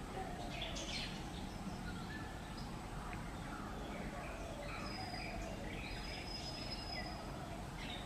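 Several small birds calling: a busy scatter of short chirps, trills and whistled notes over a quiet outdoor hiss, with a thin steady high tone behind.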